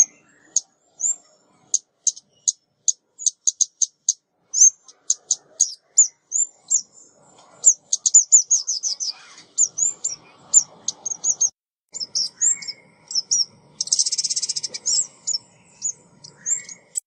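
Female ốc mít, a small Vietnamese songbird, calling in rapid strings of high, thin chirps and short sweeping notes, with a fast buzzy trill about fourteen seconds in. It is a decoy call of the kind played to lure birds of the same species.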